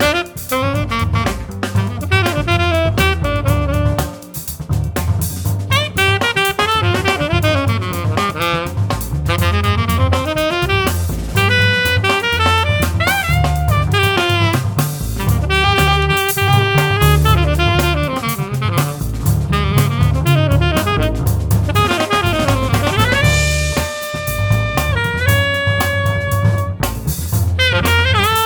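Jazz saxophone playing quick melodic runs over a drum kit, moving to long held notes near the end.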